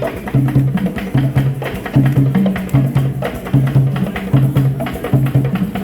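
Live ensemble hand drumming: fast, sharp drum strikes over a repeating pattern of low, pitched drum tones that recurs about every second.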